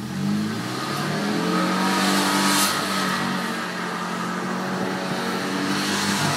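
1965 Volkswagen Beetle's air-cooled flat-four engine revving, its pitch rising and falling as the car spins doughnuts on wet, muddy ground, with a rush of tyre spray about two and a half seconds in.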